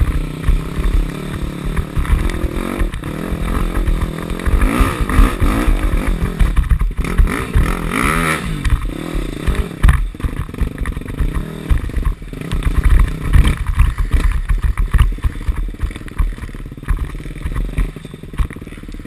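KTM 250 SX-F dirt bike's single-cylinder four-stroke engine revving up and down under throttle while riding off-road, with wind buffeting the onboard action-camera microphone.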